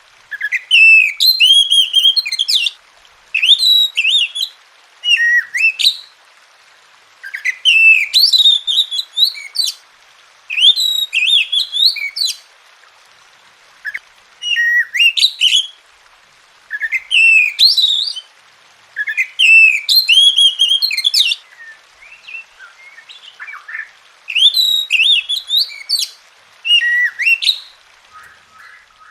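Oriental magpie-robin (kacer) singing loud phrases of rapid, slurred whistles, each lasting a second or two, with short pauses between them.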